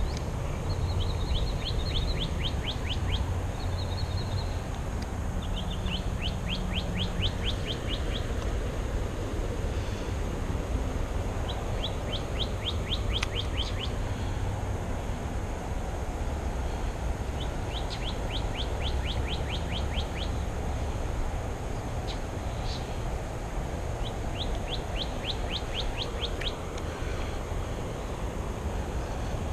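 A songbird repeating a quick trilled phrase of rapid high notes, each phrase about two seconds long and coming every five or six seconds, over a steady low rumble.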